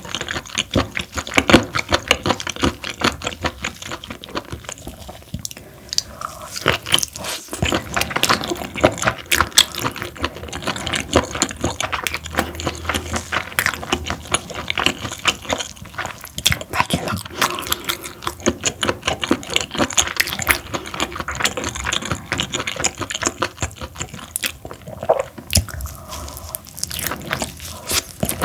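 Close-miked chewing of parboiled webfoot octopus: a continuous run of wet, sticky mouth clicks, smacks and bites.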